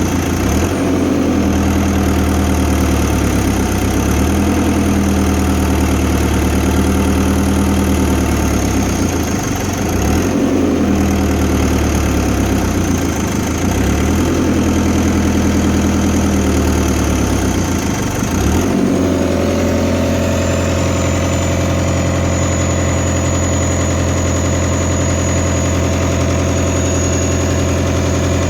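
Diesel engine of a Fiat Hitachi FH150 excavator running, its note sagging and recovering several times, then settling to a steady note about two-thirds of the way through.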